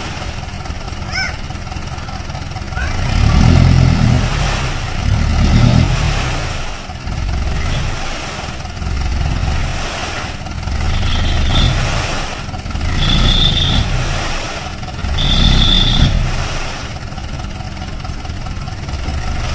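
Fuso Canter dump truck's diesel engine running and revving up again and again, about six swells, with short high squeaks on three of the later revs.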